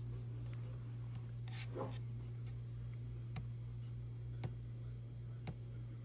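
Steady low hum with a few soft, sharp clicks, three of them about a second apart in the second half.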